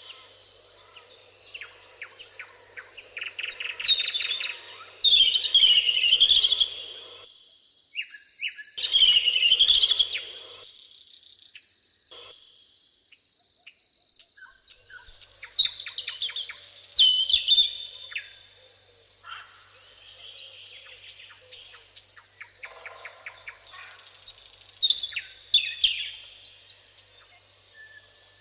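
Several songbirds singing and calling in short, varied phrases and trills, over a steady high-pitched insect drone.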